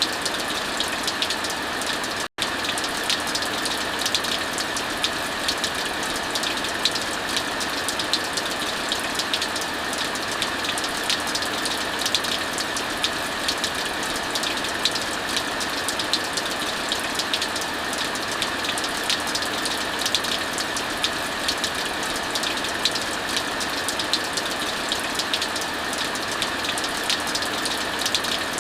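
Heavy rain falling steadily, mixed with a fireplace crackling: an even hiss dotted with many small, sharp crackles. The sound cuts out for an instant about two seconds in.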